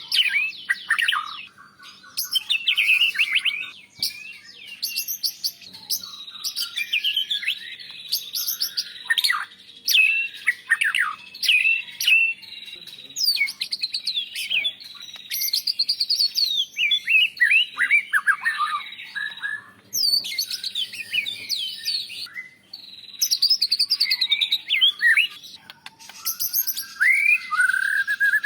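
White-rumped shama singing a long, varied song of quick whistles, sweeping notes and trills, phrase after phrase with short pauses between.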